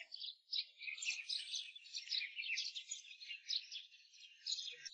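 Faint chirping of small birds: a quick, uneven run of short high notes, repeated many times over.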